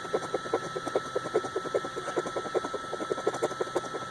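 Scratch-off lottery ticket being scratched with a knife blade: a fast run of short scraping strokes, about seven a second.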